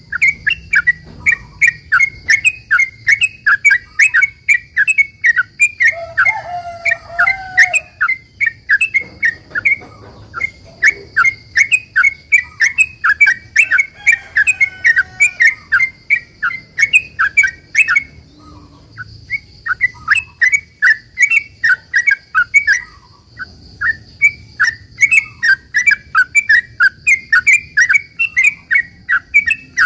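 Yellow-vented bulbul (trucukan) singing a long, fast run of short chattering notes, about four or five a second, broken by a couple of brief pauses: the long rapid-fire 'ropel' song that keepers play as a lure to make other bulbuls answer.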